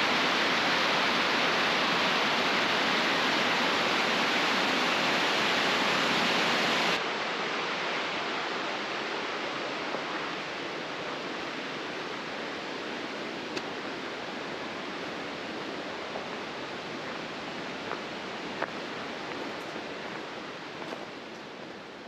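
Waterfall rushing, a steady wash of falling water. About seven seconds in it cuts to a quieter rush of water that slowly fades.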